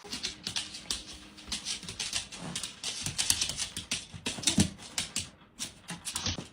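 A dog's sounds amid a dense, irregular run of short clicks and taps.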